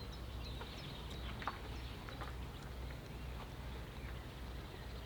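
Faint wetland ambience: a steady low rumble with scattered short, high bird chirps and clicks.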